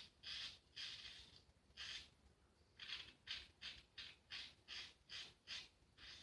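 Vintage Faynett Lather Catcher safety razor scraping through lathered stubble: a series of short, faint rasping strokes, a few spaced out at first and then a quick run of about three a second.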